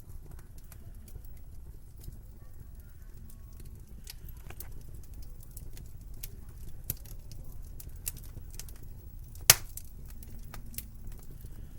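Wood fire in a fireplace crackling: irregular sharp pops and snaps over a low steady rumble, with one much louder pop near the end.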